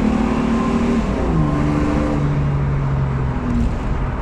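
2002 Ford Mustang's 3.8-litre V6 engine running at raised revs on homemade spark plug wires, with the revs dropping about a second in and again near the end.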